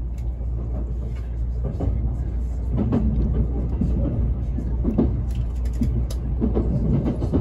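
JR East E657 series limited express electric train running on the line, heard from inside the passenger car as a steady low rumble that gets a little louder about two seconds in.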